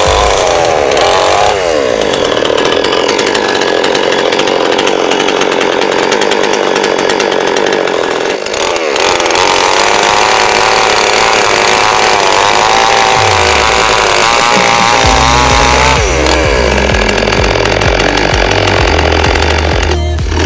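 Pazto chainsaw running at high revs. Its engine pitch wavers up and down as it loads and unloads, with a short dip about eight and a half seconds in.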